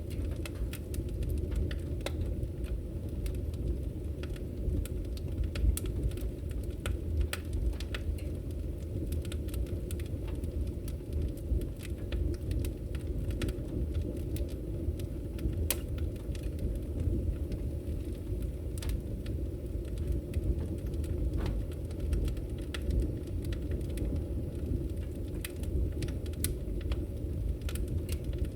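Burning firewood: a steady low rumble of the fire, with frequent sharp crackles and pops at irregular moments.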